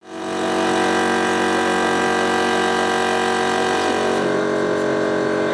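Alfa Romeo 155 V6 TI DTM race car's V6 engine idling at a steady pitch, fading in over the first half second.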